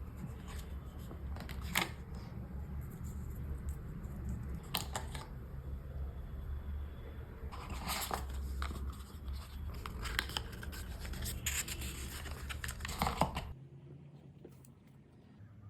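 Pixel 8a retail box and paper packaging handled by hand during unboxing: scattered scraping, tearing and rustling of paper and cardboard. A low steady hum underneath stops near the end.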